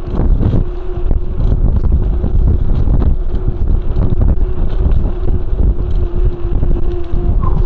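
Loud wind buffeting the microphone on a mountain bike at speed downhill, with the bike knocking and rattling over bumps in the trail and a steady hum underneath.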